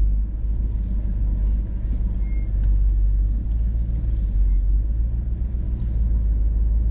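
Hummer H2's engine running at low crawling speed, a steady low rumble heard from inside the cab.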